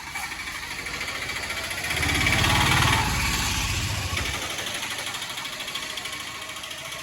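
A motor vehicle's engine passing by. It grows louder to a peak about two to three seconds in, then slowly fades away.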